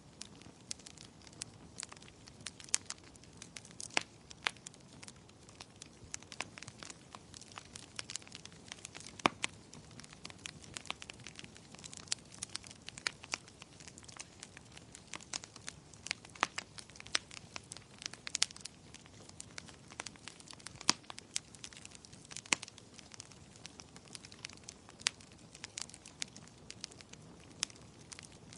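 Wood fire crackling, with irregular sharp pops of varying loudness over a soft steady rushing background.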